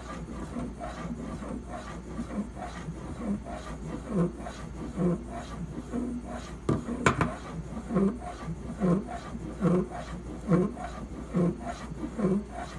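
Knife blade held in a clamp-style sharpening guide being stroked back and forth across a high-grit sharpening stone, an even scraping rub about once a second. A sharp click about seven seconds in.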